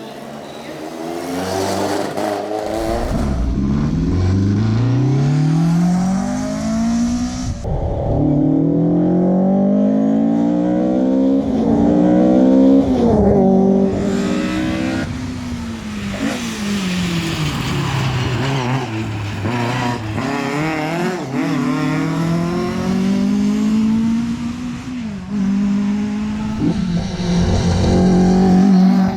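Ford Escort RS1800 rally car's four-cylinder engine at full throttle, its pitch repeatedly climbing through each gear and dropping at the changes, with stretches where the revs fall as it slows for corners before pulling hard again.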